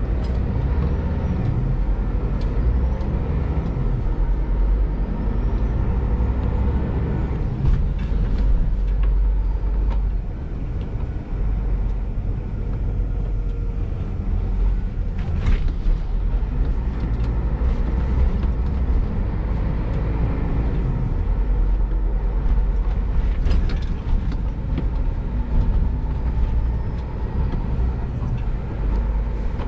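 Scania G410 truck's 13-litre six-cylinder diesel running under way with road noise, a steady heavy low rumble. A few sharp clicks or knocks come through, near 8, 15 and 24 seconds in.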